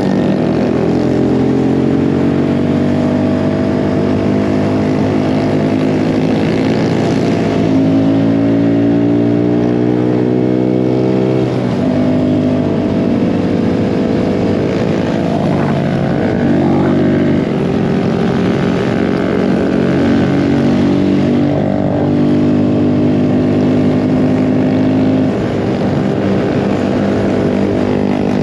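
Small mini bike engine running under way, its pitch climbing steadily as it speeds up, dropping sharply about twelve seconds in as the throttle is let off, then rising and falling again with the throttle.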